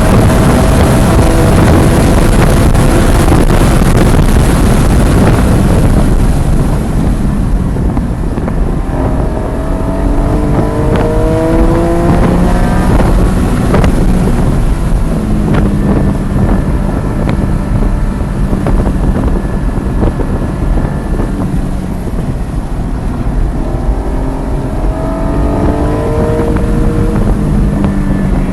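Porsche GT4 engine running hard at racing speed, with heavy wind noise on the microphone at first. About eight seconds in, the engine note climbs steadily as the car accelerates, holds fairly steady, then climbs again near the end.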